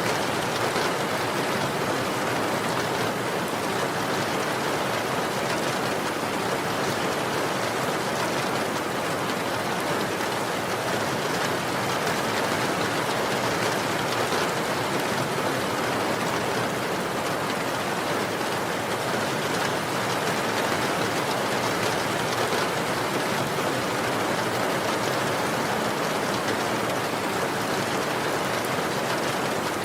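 Steady, even rain falling, a dense hiss of drops with no breaks or changes.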